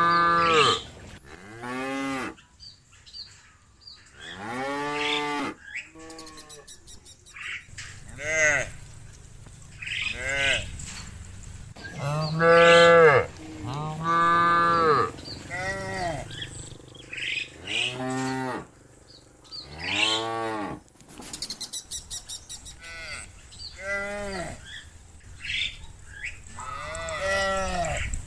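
A herd of cattle mooing over and over. Several cows call in turn and sometimes overlap, each moo rising and falling in pitch over a second or two, some low and some higher. They are restless to be let back into the barn.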